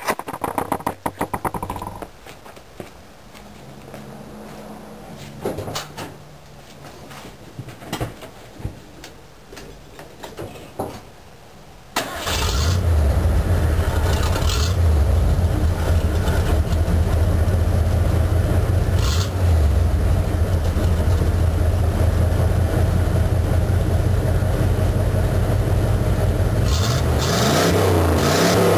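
1982 Ford Bronco's 351 Windsor (5.8 L) V8 starting about twelve seconds in, after some quieter knocks, then running loud and steady through a glasspack and Cherry Bomb muffler exhaust. The engine is revved briefly near the end.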